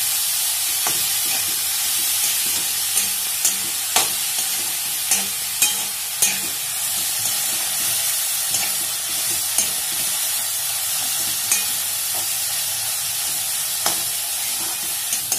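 Dried baby shrimp (jawla) frying in oil with onion and tomato in a kadhai: a steady sizzle, broken by irregular clicks and scrapes of a metal spatula stirring against the pan.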